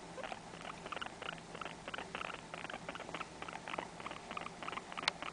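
Guinea pig making short, rhythmic chutting sounds, about three to four a second, with one sharp click near the end.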